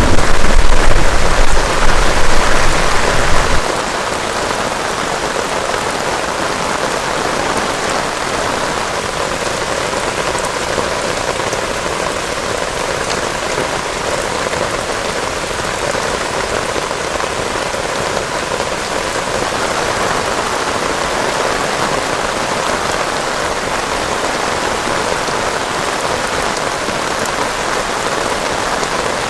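Heavy rain pouring steadily. A low rumble of thunder carries on for the first three or four seconds, then stops abruptly, leaving only the even rush of the downpour.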